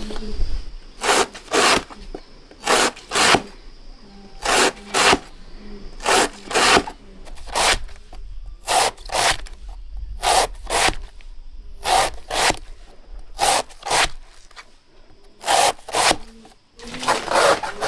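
Repeated rasping scrape strokes, mostly in quick pairs about every one and a half seconds, with a denser cluster near the end.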